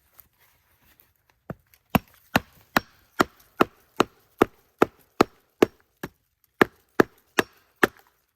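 Repeated strikes of a tool on wood, as in chopping: about fifteen sharp knocks, about two and a half a second, with a brief pause partway through.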